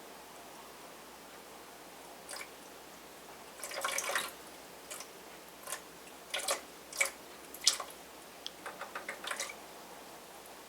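Water in a fountain splashing and dripping in short, irregular bursts, as if being pawed at, with a quick run of small drips near the end.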